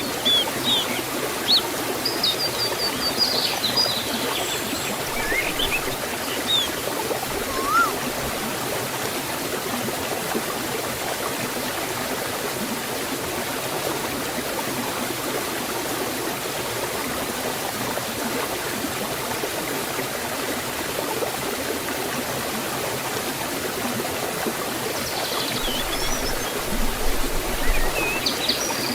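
Water of a forest stream and waterfall flowing, a steady even rush. Small birds chirp now and then in the first several seconds and again near the end.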